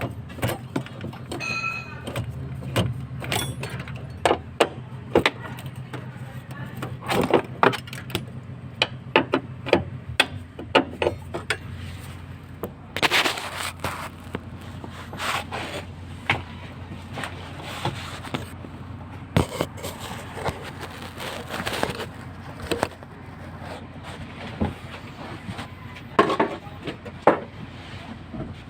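Irregular metallic clinks and knocks of hand tools working on metal truck parts, under a low steady hum that stops about ten seconds in.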